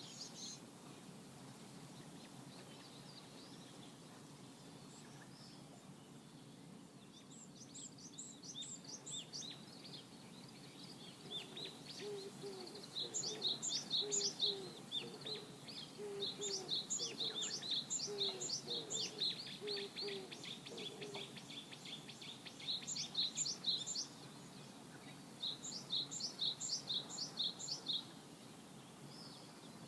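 Songbird singing over a steady outdoor background. It sings repeated phrases of quick, high, downward-sweeping notes, about four a second, starting about a quarter of the way in and recurring until near the end, with a run of short lower notes in the middle.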